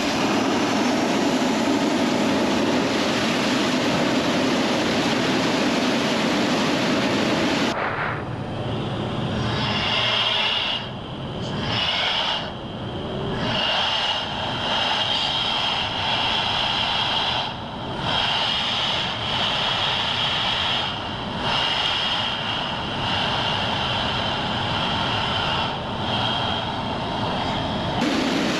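F-16 jet engine running on the ground. For the first several seconds it is a dense rushing noise; about eight seconds in the sound changes abruptly to a steady high whine over the rush, with several brief dips.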